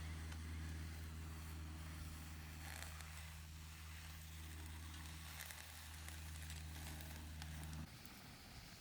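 Faint crackling of a small twig fire burning in a compact wood stove, over a steady low hum that cuts off abruptly near the end.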